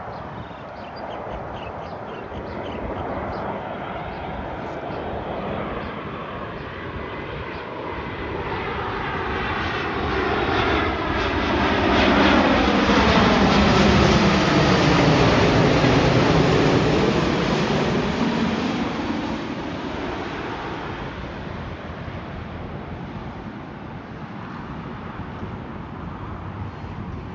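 Jet airliner passing close overhead: its engine rumble builds, peaks about halfway through with a sweeping whoosh as it goes by, then fades away.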